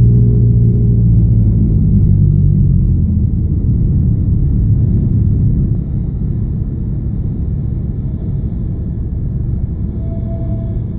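Cessna 172's four-cylinder piston engine and cabin noise on final approach with full flaps, a steady drone that gets quieter about halfway through.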